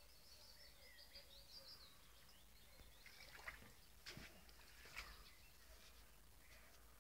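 Near silence: faint outdoor ambience with small birds chirping in the first couple of seconds and a few soft knocks and rustles in the middle.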